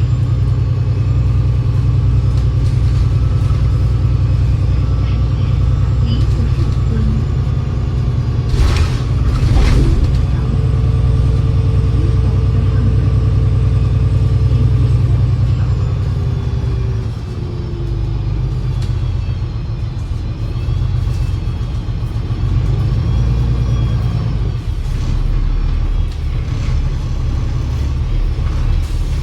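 Alexander Dennis Enviro500 MMC double-deck bus with a Voith 864.5 automatic gearbox, heard from on board while running. The engine drones steadily. A high gearbox whine glides down as the bus slows about halfway through, then the engine picks up again. A couple of knocks or rattles come about nine seconds in.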